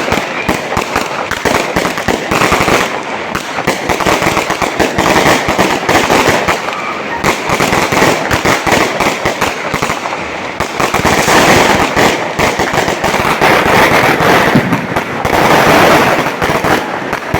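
Fireworks going off in a dense, continuous barrage of rapid bangs and crackles, swelling louder about eleven seconds in and again near the end.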